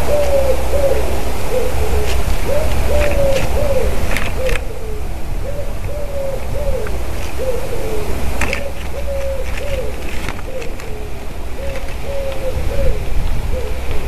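A bird calling in a long run of short, low-pitched hooting notes, about two a second, each note rising, holding briefly and dropping. A few sharp clicks sound now and then above the calls.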